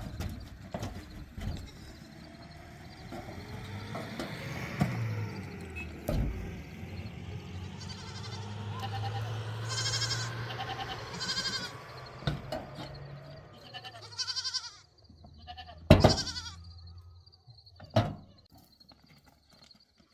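A farm animal bleating in a few short quavering calls over a low steady background, with two loud sharp knocks near the end.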